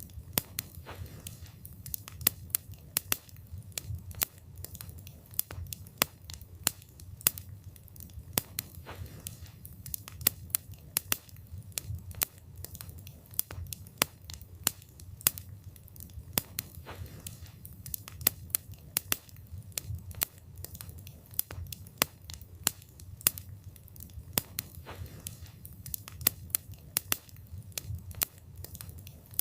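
Wood campfire burning: many sharp, irregular crackles and pops from the burning wood over a low steady rumble of the flames.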